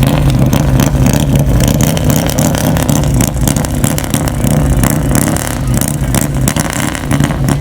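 Motorcycle engines running at low revs while riders creep along in a slow race.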